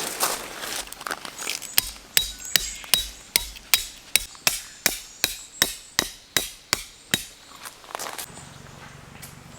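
A hammer driving a tent stake in steady blows, about fifteen strikes at nearly three a second with a metallic ring, from about two seconds in to about seven seconds in.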